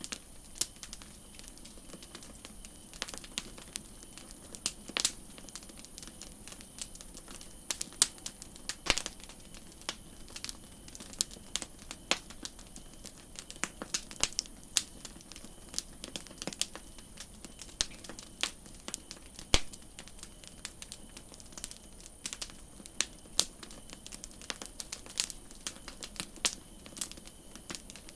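Campfire crackling: irregular small pops and snaps of burning wood, several a second, over a soft steady hiss, with a few sharper, louder snaps.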